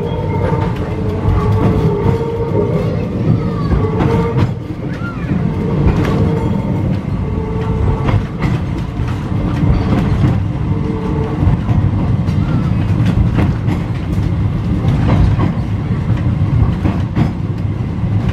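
Ex-Melbourne W2-class tram running along the track: a steady low rumble with irregular clicks and clacks as the wheels pass over rail joints.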